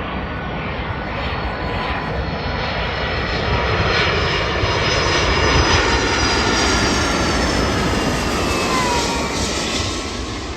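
An airliner's engines pass close by. The roar swells to a peak midway and then eases, while thin whining engine tones slide down in pitch as the aircraft moves away.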